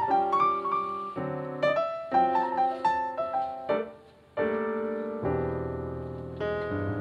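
Solo piano music: a melody over sustained chords, with a brief pause about four seconds in.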